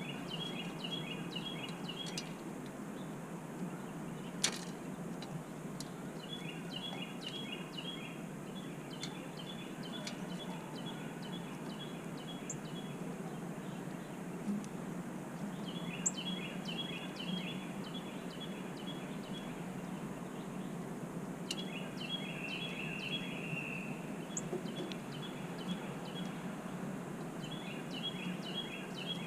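A songbird singing a fast run of evenly repeated high notes, each run about two seconds long and repeated every few seconds, over a steady low background rumble. A single sharp click about four seconds in.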